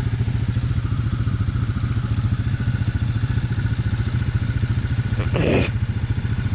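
An off-road vehicle's engine idling steadily with an even, rapid pulse. About five and a half seconds in, a brief louder sound rises over it.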